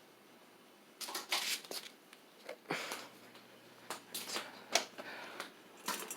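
Handling noise close to the microphone: irregular rustles, clicks and knocks starting about a second in, as of a person shifting about and handling things.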